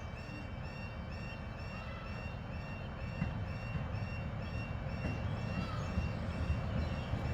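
HST power cars' diesel engines rumbling as the train approaches, growing steadily louder. A high, repeating chirping tone sounds about twice a second throughout.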